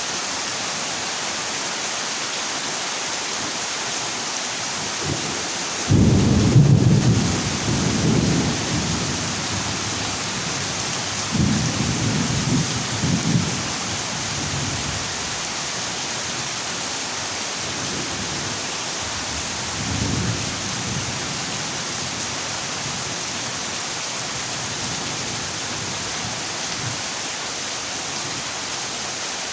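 Heavy rain falling steadily on a zinc roof. A loud roll of thunder breaks in suddenly about six seconds in, another rumble follows around twelve seconds, and a shorter, fainter one comes near twenty seconds.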